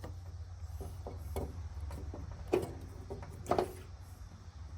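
A few short clicks and knocks of hand work on a riding mower's blade-belt tensioner as its end is anchored in place, two of them close together near the middle, over a steady low hum.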